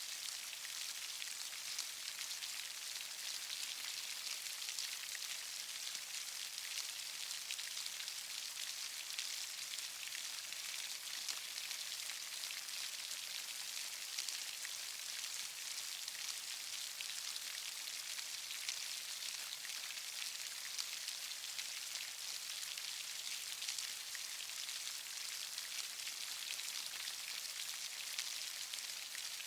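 Steady rain falling, a dense patter of fine raindrop hits with no break or change.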